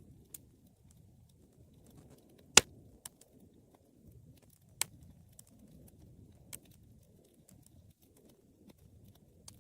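Wood fire burning in a fireplace: a low, steady rumble of flames broken by a handful of sharp crackles and pops, the loudest about two and a half seconds in and another near five seconds.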